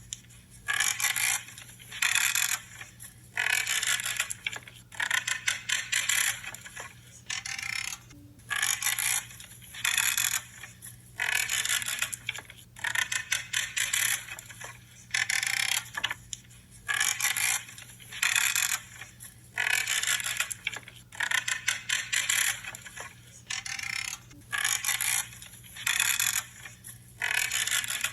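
Pruning shears cutting through branches, about one cut a second. Each cut is a crackly, creaking crunch lasting around half a second as the blades close through the wood.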